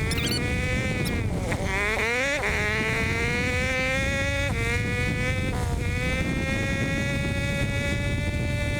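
Hawk 250 dual-sport motorcycle's single-cylinder engine running at road speed with a steady buzz, its pitch dipping and climbing back about two seconds in and again around the middle, over a constant rumble of wind and road noise.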